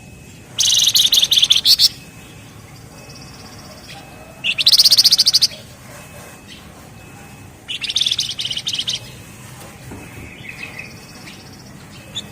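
Flamboyan songbird (wergan jawa, Javan fulvetta) singing its dense, drilling trill (ngebren): three high-pitched bursts of very rapid repeated notes, each about a second long, then a softer short call near the end.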